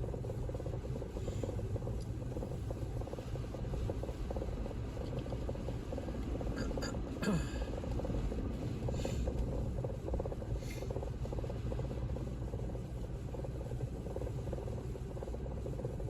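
Steady low road and engine noise inside a car driving on snowy roads. A few short, sharp higher sounds come through about 7, 9 and 11 seconds in.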